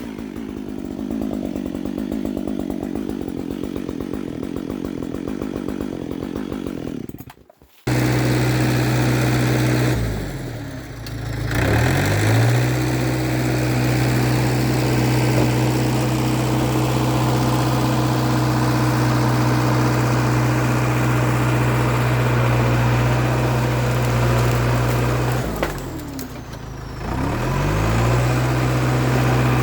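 A Husqvarna 555 chainsaw running for several seconds, then, after a sudden cut, the diesel engine of an International Harvester TD8E bulldozer running steadily and loudly. The engine's pitch sags twice, about ten seconds in and again near the end, and recovers each time.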